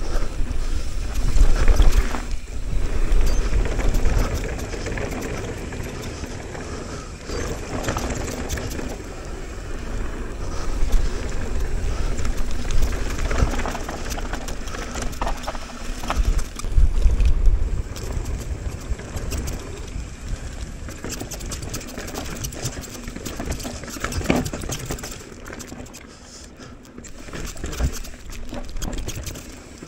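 Mountain bike going down a rough bike-park trail: tyres on dirt and the bike rattling over bumps, with wind rumbling on the helmet-mounted microphone in surges.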